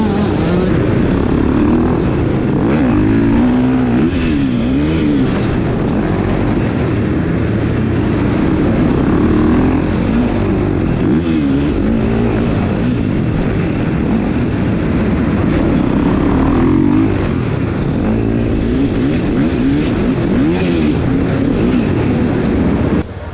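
Motocross bike engine revving up and down over and over, its pitch rising and falling with the throttle. The sound stops abruptly just before the end.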